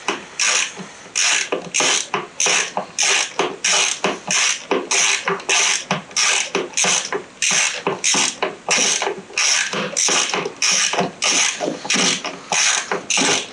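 Socket ratchet clicking in quick, even strokes, about two a second, as a new spark plug is run down its long threads into the engine.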